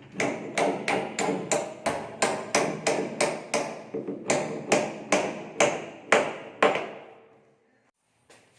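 Hammer striking repeatedly during a wooden door repair: about twenty quick, even blows, roughly three a second, with a short ringing fade after the last one.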